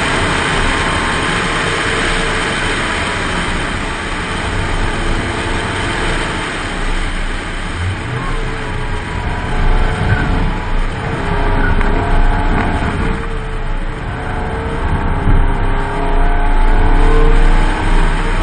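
Rover 620 Si Lux's Honda 2.0-litre SOHC 16-valve four-cylinder engine working along a winding road, its pitch repeatedly rising and falling as the revs climb and drop through the bends. Heavy wind and road noise runs underneath.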